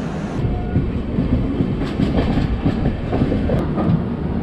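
Passenger train coaches rolling along the track, the wheels clattering over rail joints under a steady low rumble, heard from an open coach doorway.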